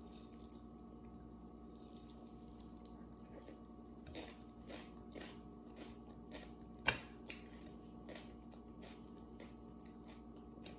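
Faint chewing and mouth sounds of a person eating by hand, a run of short clicks through the second half, the sharpest about seven seconds in, over a steady low hum.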